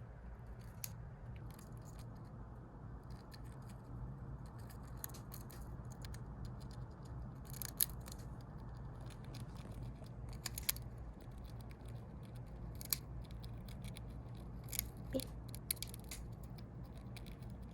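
Golden hamster crunching and nibbling dry food: irregular small crisp cracks and crackles, a few sharper snaps among them, over a faint steady hum.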